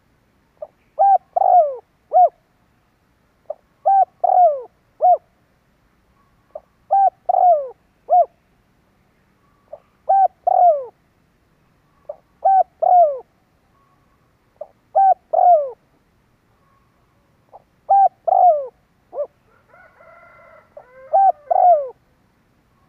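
Spotted dove cooing, the repeated territorial call: about eight phrases, roughly one every three seconds. Each phrase is a short note followed by two or three longer notes that fall in pitch.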